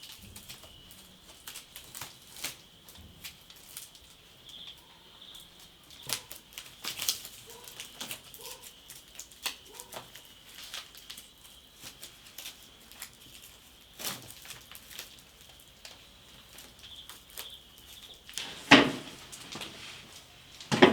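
Scattered rustles, clicks and knocks of things being handled, over a steady faint high-pitched hum that stops near the end, just before one louder knock.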